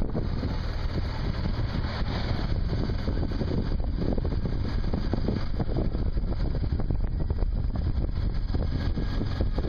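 Motorcycle engine running steadily under way, with heavy wind buffeting on the microphone.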